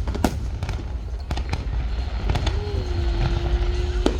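Fireworks going off: a string of sharp pops and crackles over a continuous low rumble. About two seconds in, a steady low tone begins and holds for nearly two seconds.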